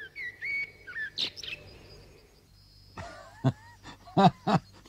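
Birds chirping and whistling in short, quick calls. Near the end, voices begin.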